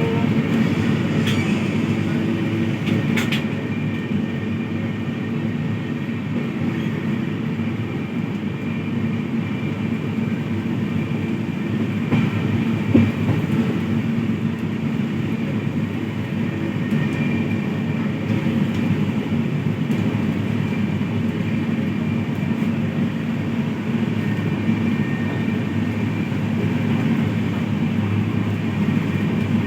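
Train running on the rails: a steady low rumble, with a few sharp clicks in the first seconds and one louder knock about 13 s in.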